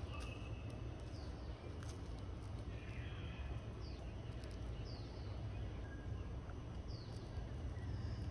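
Small birds chirping in the background: about five short, high, falling calls spread over several seconds, over a steady low rumble, with a few faint clicks.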